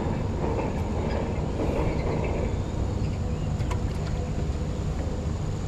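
Steady low rumble with no clear pauses, with a faint, steady high tone above it.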